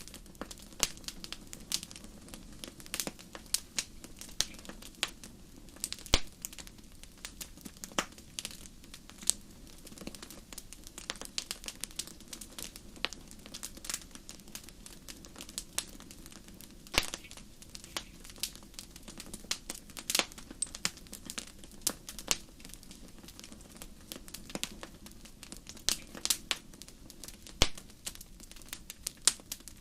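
Fire in a fireplace crackling, with sharp pops and snaps at irregular intervals over a low steady background noise.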